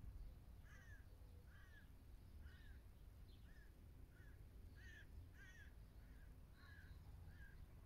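A distant bird calling over and over: about a dozen short calls spaced roughly half a second to a second apart, faint over a steady low rumble.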